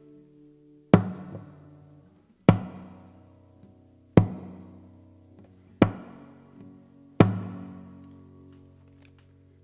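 Five hard percussive strikes about a second and a half apart, each followed by a ringing acoustic guitar chord that dies away. The slow beat evokes hammer blows driving nails.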